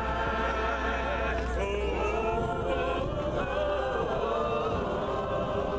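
A church congregation singing a cappella, men's and women's voices holding long notes together and moving between them, with a steady low hum underneath.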